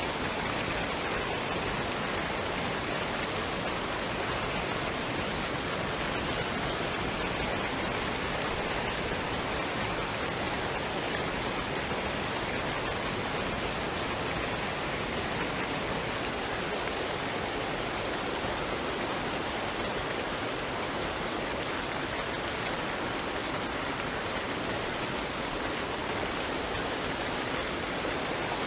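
Waterfall and stream water running in a steady, unchanging rush.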